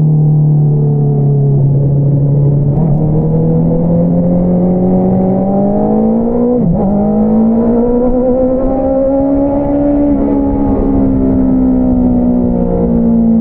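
Honda CBR650R's inline-four engine through an Akrapovič single-outlet exhaust, pulling under way: the exhaust note rises slowly, dips sharply for a moment about halfway through, then climbs again and eases off gradually near the end.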